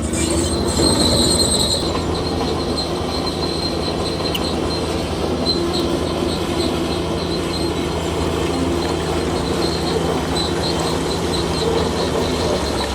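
Bulldozer's diesel engine running steadily under work, with its steel crawler tracks squealing and clanking.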